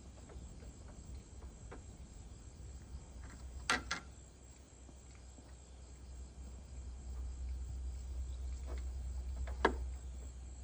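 A few sharp knocks: two close together about four seconds in, and a louder single one near the end, over a steady low rumble and a faint, steady high-pitched tone.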